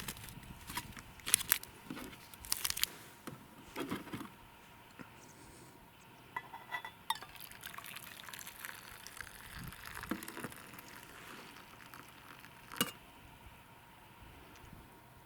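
Scattered clicks, knocks and light clinks of objects being handled, with some rustling between them.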